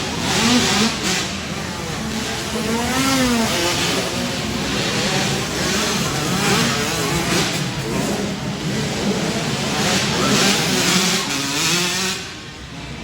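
Several 65cc two-stroke dirt bike engines racing, revving hard with pitch rising and falling as the riders accelerate and let off. The engine noise drops away near the end.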